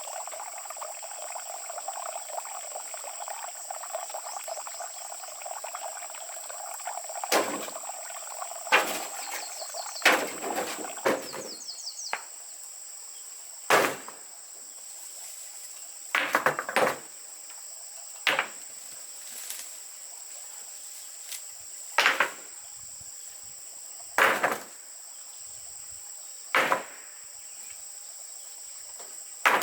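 Steady high-pitched insect chirring, with a series of sharp knocks starting about seven seconds in and coming every two seconds or so, some in quick pairs.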